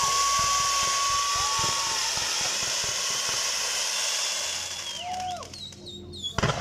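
Ground fountain firework spraying sparks with a steady loud hiss, a held whistle tone over it for the first two seconds. The hiss dies away about five seconds in, some falling whistles follow, and a single sharp bang comes near the end.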